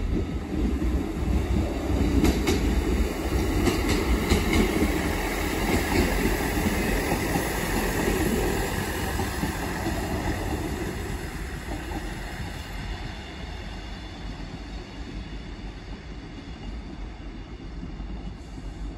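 Northern Class 158 two-car diesel multiple unit passing close by: diesel rumble with wheels clicking over rail joints and points. It is loudest a few seconds in and fades steadily as the train pulls away.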